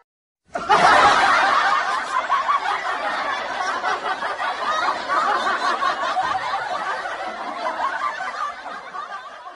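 Canned laughter: a crowd laughing together, starting abruptly about half a second in and fading out near the end.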